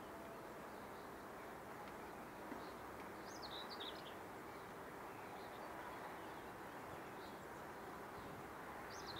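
A small songbird singing short twittering phrases, once about three seconds in and again at the end, over faint steady outdoor background noise.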